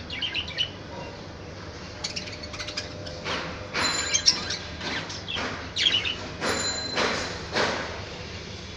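Budgerigar chirping: a run of short, sharp chirps that come thicker and louder from about three seconds in.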